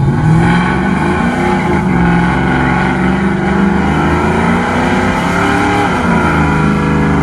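A vehicle engine running hard at high revs, its pitch rising at the start, holding with some wavering, dipping about six seconds in, then rising again and dropping off near the end.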